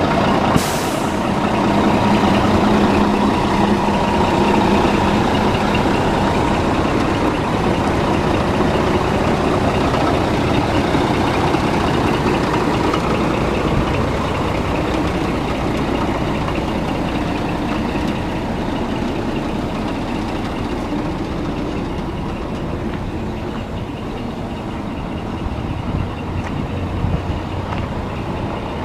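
2007 Scania P380 truck's diesel engine idling steadily, with a brief hiss of air near the start.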